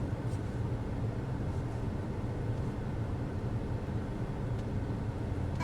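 Steady low hum inside a Volkswagen car's cabin, the engine idling.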